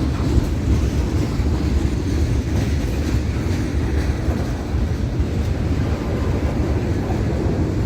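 A train rolling past at trackside: a loud, steady low rumble of wheels on rail.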